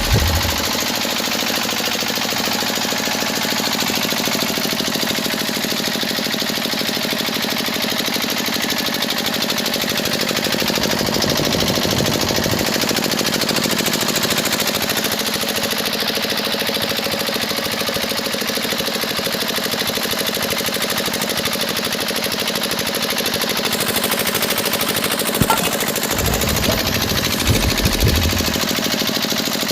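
A small motor running steadily with a dense, rapid rattle, with a few low knocks near the end.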